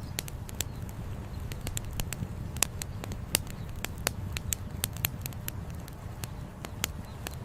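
Wood campfire crackling: irregular sharp pops and snaps, several a second, a few louder than the rest, over a steady low rumble.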